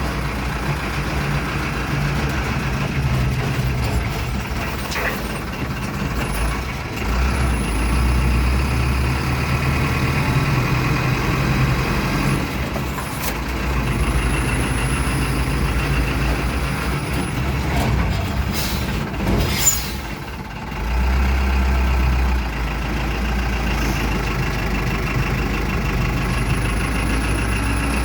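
Truck engine running on the move, heard from inside the cab, steady and low, with a brief sharp noise about two-thirds of the way through.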